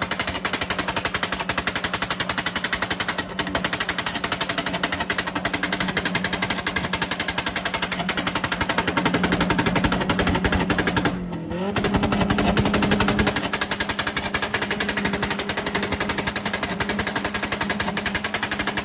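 A car engine held on a two-step launch limiter at a fixed high rpm, its exhaust firing a rapid, continuous string of pops and bangs. There is a brief break about eleven seconds in, after which it comes back on the limiter at a slightly higher pitch.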